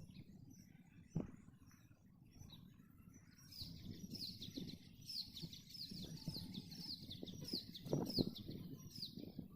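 A bird singing a quick run of short, high, downward-slurred notes, about three a second, starting a few seconds in. Underneath is a low rumble with a couple of knocks.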